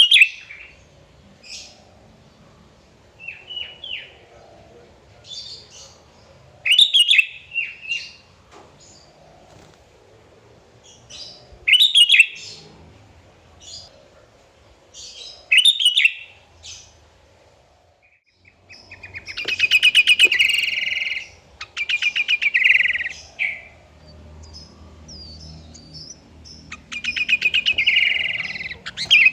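Sooty-headed bulbul (kutilang) singing: short loud phrases every three to four seconds, then in the second half longer, rapid trilled phrases.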